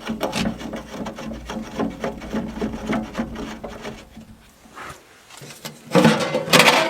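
Rapid, evenly repeated strokes of a hand tool scraping or rasping wood, then a quieter pause and a loud rustling crunch near the end.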